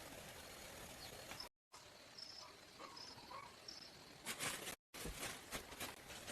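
Steady insect hiss of forest ambience with a few short bird chirps in the middle. From about four seconds in there is a run of sharp clicks and knocks from handling work, and the sound drops out briefly at the edit cuts.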